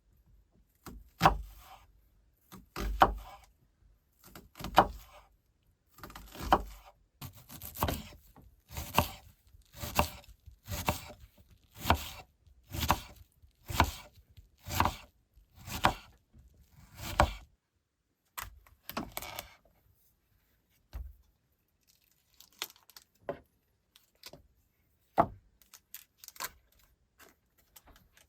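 Repeated chopping blows into wood. They come about every two seconds at first, then settle into a steady stroke about once a second. After about seventeen seconds they thin out to a few scattered, lighter knocks.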